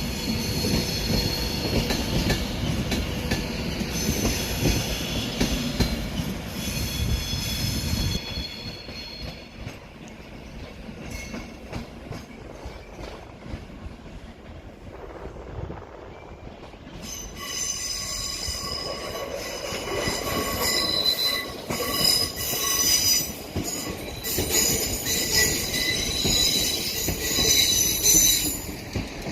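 A train moving slowly through the station with its wheels squealing on the rails. A low rumble with high squeal fades out about 8 seconds in. About 17 seconds in, a louder, wavering high-pitched squeal starts up and runs on.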